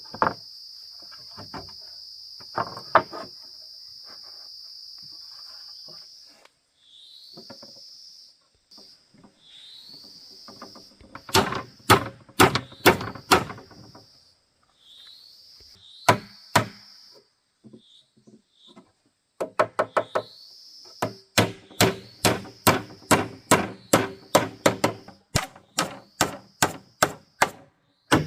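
Repeated sharp tool strikes on wood: a few clusters of knocks, then a steady run of about two knocks a second through the second half. Under them a steady high insect drone stops about six seconds in, followed by short rising chirps.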